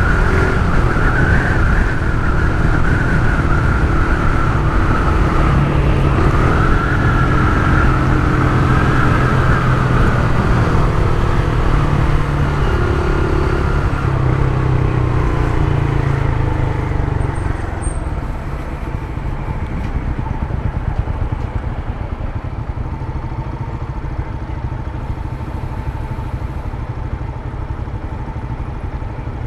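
Honda CG Titan 150's single-cylinder four-stroke engine running through an aftermarket Turuna exhaust, its pitch wavering with the throttle. About two-thirds of the way through it eases off and settles quieter and steadier.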